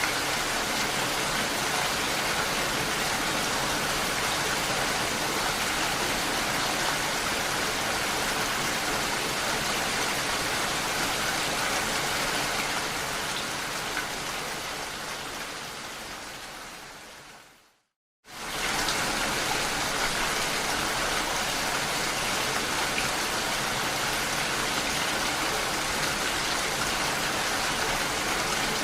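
Steady rain pattering on window glass, a dense even hiss. About two-thirds of the way through it fades away over a few seconds, cuts to silence for a moment, and quickly returns at full strength, like the seam of a looped recording.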